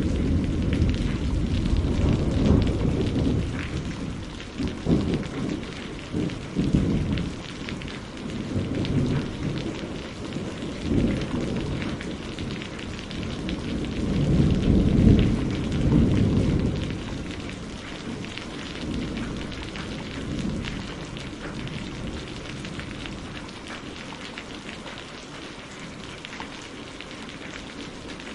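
Steady rain pattering on a greenhouse roof, with rolling thunder rumbling loudest in the first few seconds and again around the middle, then dying away toward the end.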